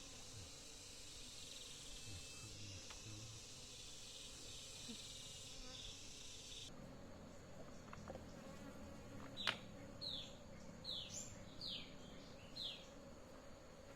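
Faint insect chorus buzzing steadily, cutting off abruptly about halfway through. Near the end come a sharp click and then a run of about five short chirps, each falling in pitch.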